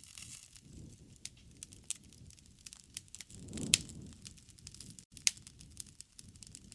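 Campfire burning: wood crackling with many small sharp pops over a soft low rush of flame. The flame swells a little past halfway, along with the loudest pop, and another loud pop follows about a second and a half later.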